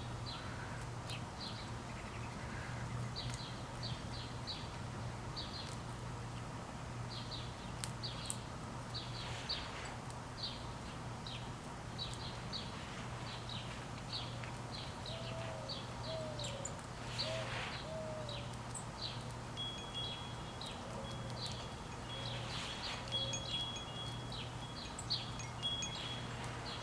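Many small birds chirping over and over, short high chirps throughout, with a few lower gliding calls in the middle, over a steady low hum.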